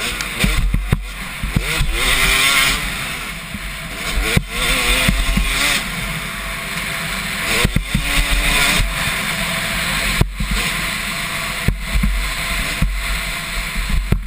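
Motocross bike engines revving up and down as the bikes race on the track, their pitch rising and falling repeatedly.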